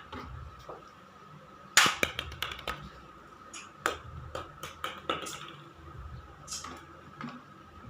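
Handling of a small battery-powered plastic toy cat: a quick run of sharp clicks and taps, about a dozen in three seconds starting about two seconds in, with one more near the end, over a faint steady high hum.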